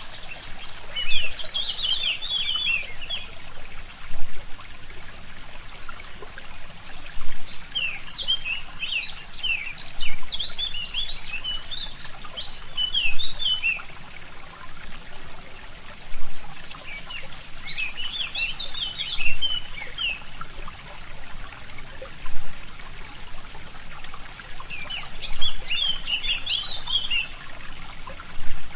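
Small stream trickling steadily, with a brief louder surge about every three seconds. A forest songbird sings four bursts of quick twittering notes over it, around the start, in the middle stretch, and near the end.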